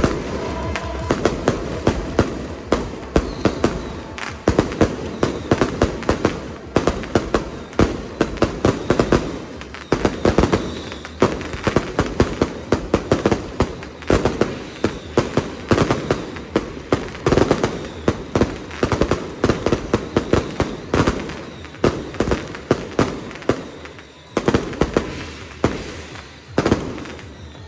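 Firecrackers going off in a long, dense barrage: rapid, irregular bangs several times a second, with scattered louder reports.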